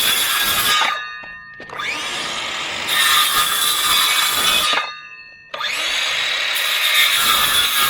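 Power saw cutting through pallet wood. It stops twice for about half a second, around 1 s and 5 s in, and each time it starts again with a rising whine.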